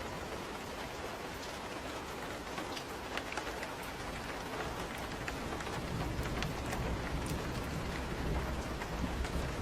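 Steady rain pattering on a surface with many close drips, and a low rumble of distant thunder building from about halfway through.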